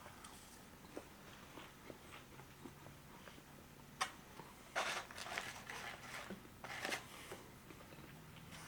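Faint eating sounds from a person eating beef tongue tacos: quiet chewing and mouth clicks, with a few short crackly rustles about four, five and seven seconds in.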